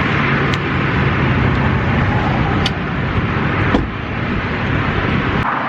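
Steady rumble and road noise of a moving car, with a few light clicks. The sound changes abruptly near the end.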